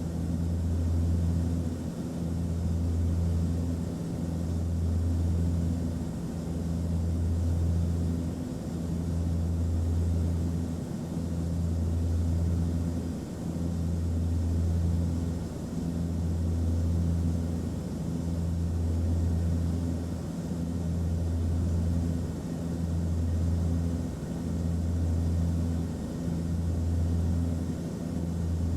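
Airplane cabin noise: a steady low engine drone with a hum of a few low tones, swelling and easing in a slow throb about every two seconds.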